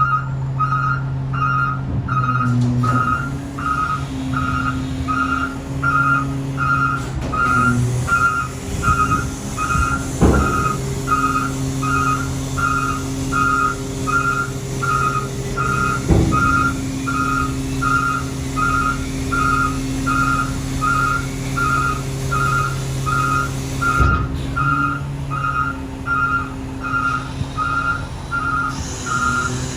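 Backup alarm beeping steadily, about one and a half beeps a second, over a garbage truck's diesel engine running at a steady speed. Three sharp knocks stand out, spread across the stretch.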